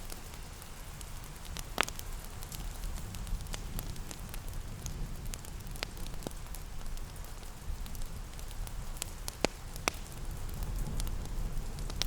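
Fireplace crackling, with scattered sharp pops, a few louder ones about two seconds in and near ten seconds, over a low steady rumble and soft rain.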